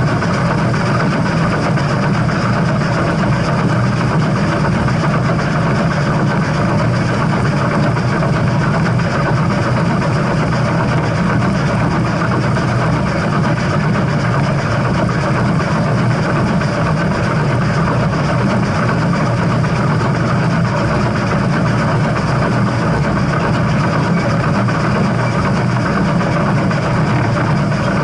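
Steam train running, a loud steady rumble with no break or clear beat.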